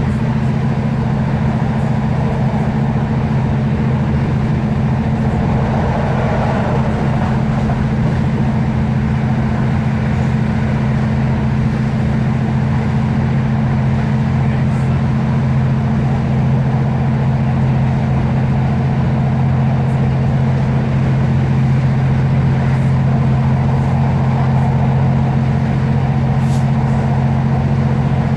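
Class 156 Super Sprinter diesel multiple unit running along the line, its underfloor Cummins diesel engine giving a steady, unchanging drone.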